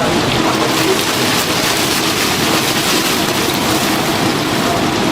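Chicken deep-frying in a vat of hot oil, a steady loud sizzle.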